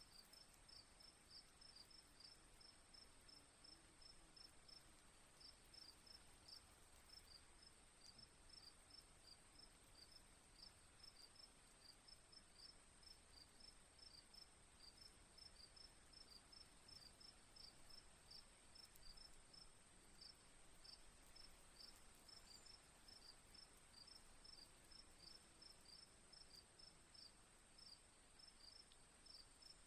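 Crickets chirping faintly in a quick, regular pulse of short chirps with brief pauses, over a steady high-pitched tone.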